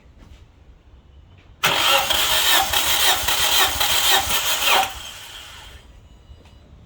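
Starter cranking the Nissan QG18DE four-cylinder engine, a loud pulsing run that begins suddenly about a second and a half in and stops abruptly after about three seconds, then fades out.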